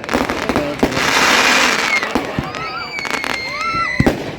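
Fireworks going off: a dense crackling burst with several sharp bangs, then a long, steady high whistle in the second half.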